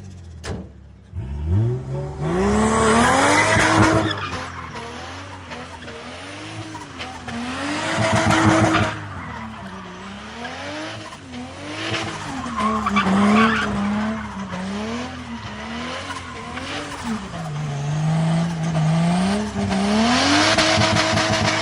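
Turbocharged Toyota 2JZ-GE inline-six revving hard again and again, its note climbing, dropping and held high several times. A loud rushing noise comes in at each high point, about four times.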